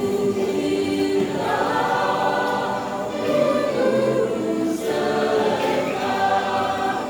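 Mixed church choir singing a hymn in several parts, holding notes in phrases with a short breath between them about three seconds in and again near five seconds.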